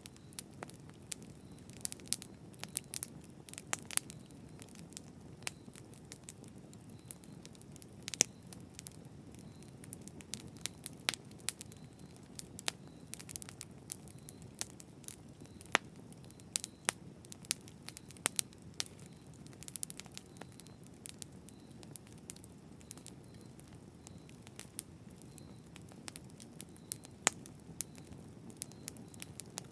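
Campfire burning, with a steady low rumble and frequent sharp, irregular crackles and pops from the burning wood.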